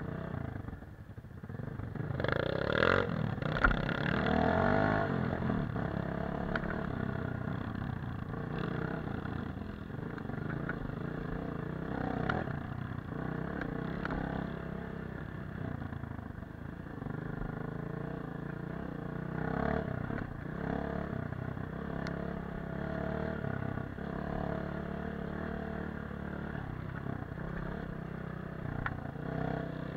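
Off-road motorcycle engine running under way. It revs up and down a few seconds in, then holds a fairly steady pull with small rises and falls in pitch.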